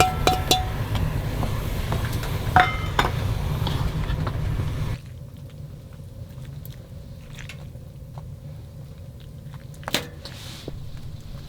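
Metal utensils clinking against cookware, several ringing clinks over a low rumble, then an abrupt drop to a quieter background with occasional small clicks and one sharper click near the end.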